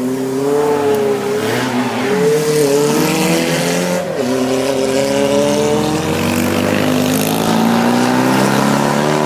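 Hill-climb race car accelerating hard through the gears, its engine note climbing and then dropping sharply at upshifts about two and four seconds in. The engine revs long in the next gear before the note falls away near the end.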